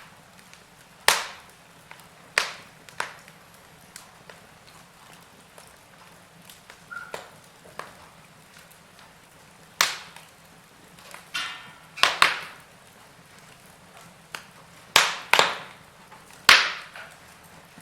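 Wood fire in a fireplace crackling: sharp snaps and pops come at irregular intervals, a few of them loud, over a faint steady hiss.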